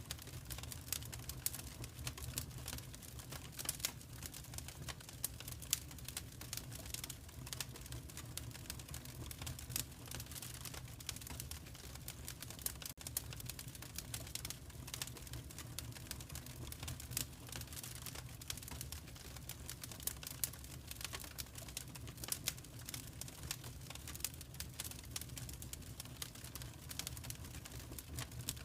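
Wood fire crackling in a fireplace: a steady scatter of small, irregular pops and snaps over a low, steady rumble.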